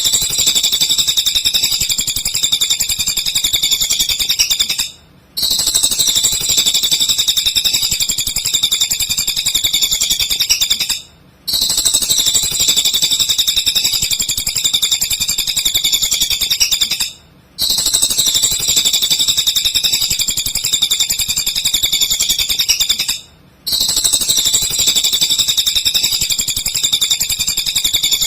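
Cililin bird singing a fast, unbroken, high-pitched chattering song in phrases about six seconds long. Each phrase is cut by a short silent break, four times in all, repeating evenly like a looped training recording (masteran) for songbirds.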